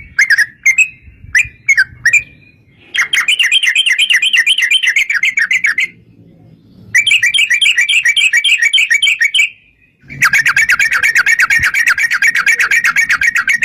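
Yellow-vented bulbul (trucuk) singing: a few separate chirps, then three long, rapid runs of repeated notes (ropel) with short pauses between them.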